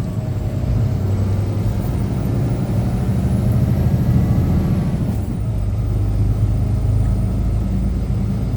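Semi truck's diesel engine droning steadily with tyre and road noise, heard from inside the cab while driving.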